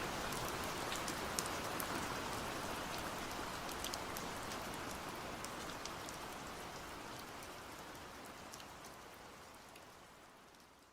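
Steady rain falling, with scattered sharp drop impacts, fading out gradually to near silence by the end.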